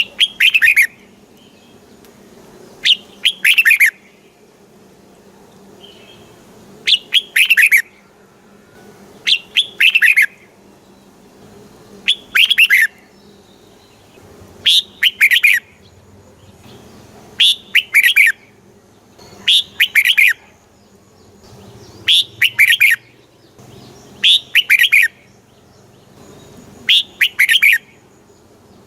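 Red-whiskered bulbul singing: about eleven short, bright phrases of a few quick notes each, repeated every two to three seconds.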